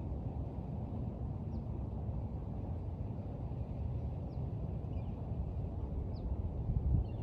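Birds chirping faintly, a few short high downward chirps every second or two, over a steady low rumble of outdoor background noise.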